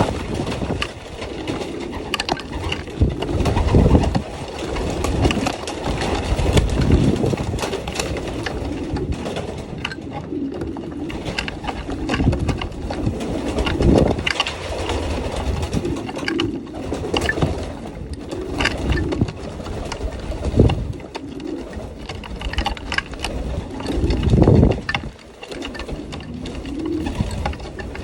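Racing pigeons cooing in their loft, a continual low murmur of calls, with scattered clicks and a few louder thumps, about 4, 14, 20 and 24 seconds in.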